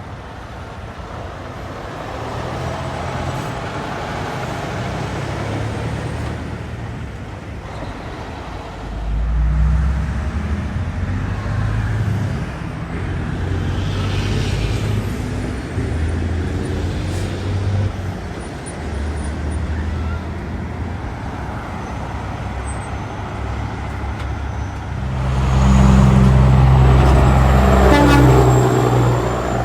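Road traffic with heavy trucks and cars passing, a steady low engine and tyre drone. The loudest vehicle goes by close near the end.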